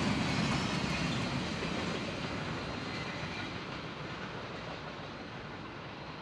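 Trailer-on-flatcar freight train rolling past, its steel wheels rumbling and clicking over the rail joints, fading steadily as the last cars move away.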